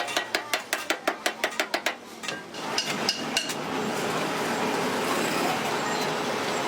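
Rapid light hammer taps on radiator metal, about five a second, stopping about two seconds in; then a steady hiss with a few scattered clicks.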